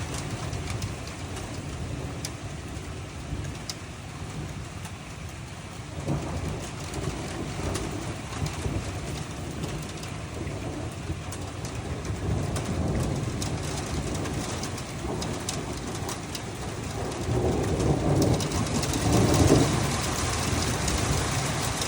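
Steady rain falling on surfaces, with scattered drop ticks and a low rumble that swells and fades about three-quarters of the way through.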